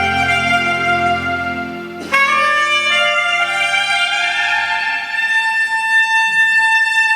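Soprano saxophone playing a smooth-jazz melody with a band. About two seconds in the sax enters sharply with a rising phrase, the bass soon drops away, and it ends on one long held high note.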